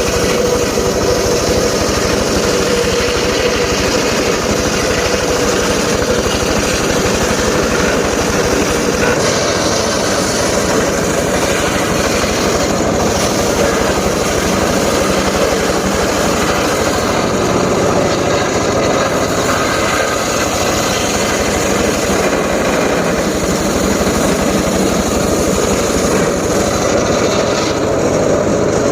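Engine-driven homemade circular saw rig running steadily.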